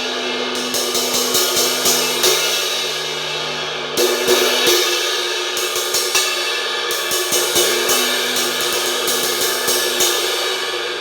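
Vintage Zildjian 18-inch A crash cymbal, cracked around its edge, struck repeatedly with a stick, several hits a second over a continuous ringing wash. Heavier crashes land about four and seven seconds in, and the ringing fades near the end.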